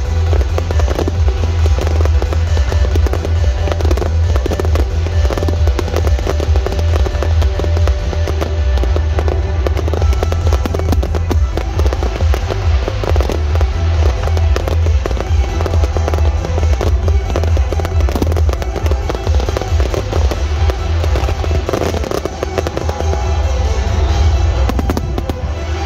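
Fireworks display: aerial shells bursting one after another in a dense, continuous barrage of bangs and crackles, heard together with the show's music soundtrack.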